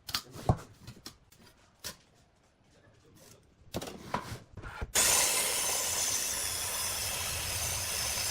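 Wooden pieces being handled, with a few sharp knocks. About five seconds in, a steady rasping noise of wood being worked starts abruptly and runs for a few seconds.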